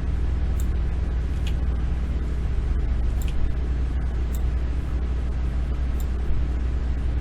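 Computer mouse clicking every second or so over a steady low hum of background noise.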